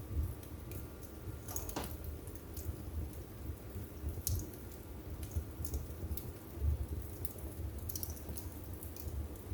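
Wood fire burning in a fireplace: irregular crackles and small pops over a low steady rumble, with one louder pop about two seconds in.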